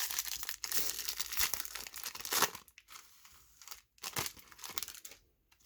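A baseball card pack's wrapper being torn open and crinkled: dense crinkling for about two and a half seconds, then a few short crinkles.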